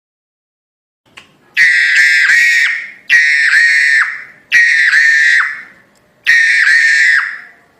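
Jalak hongkong myna calling: four loud, shrill whistled calls, each over a second long and dipping in pitch, repeated at even intervals starting about a second and a half in.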